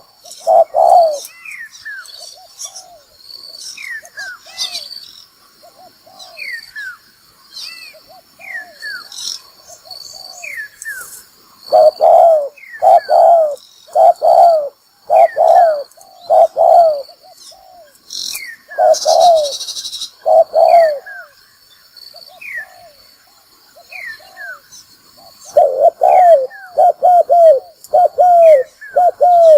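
Spotted dove cooing over and over, the provocative decoy call that trappers use to lure wild doves. Loud runs of coos alternate with softer ones, while high, short falling chirps from other birds come in between.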